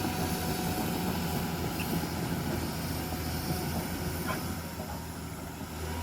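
Heavy machine's diesel engine running steadily with an even low drone, with a few faint knocks over it.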